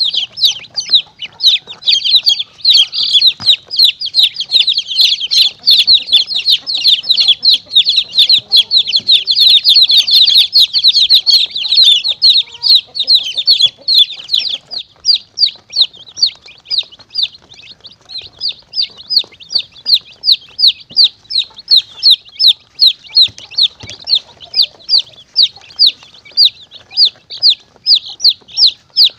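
Chicks peeping: a non-stop run of short, high-pitched calls, used as a lure to call monitor lizards and mongooses. The calls are dense and overlapping at first, then thin out about halfway to a steady run of single peeps at about three a second.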